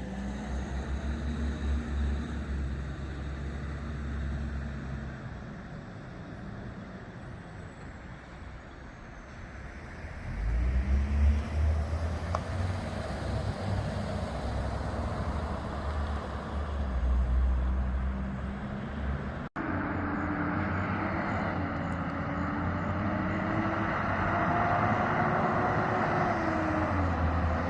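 Heavy diesel fire trucks pulling away, their engines rumbling low and climbing in pitch as they accelerate, once about ten seconds in and again in the last third. There is a brief gap in the sound partway through.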